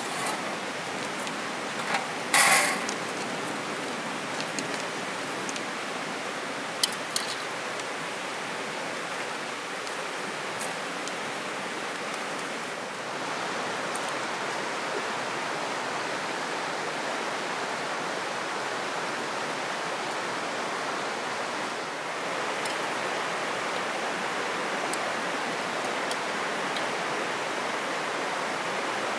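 Steady rush of flowing water, with a few sharp clicks and knocks about two and a half seconds in and again about seven seconds in.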